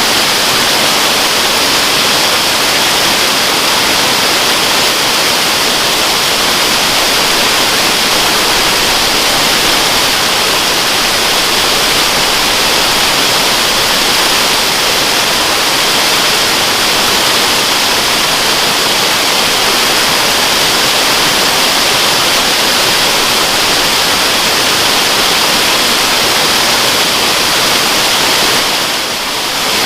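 Waterfall: a steady, loud rush of falling water, with a brief dip in level near the end.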